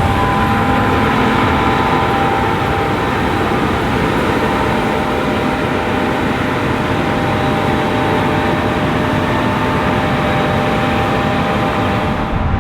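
Heavy farm machinery running steadily, a constant engine-and-machine din with a thin steady whine on top. A sound change near the end suggests a cut to another shot.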